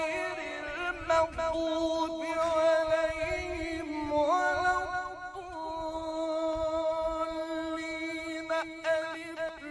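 A man's voice chanting in a Middle Eastern style, holding long notes with quick turns in pitch between them.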